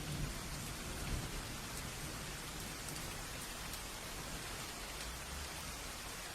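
Steady rain falling, with a low rumble of thunder in the first second or so.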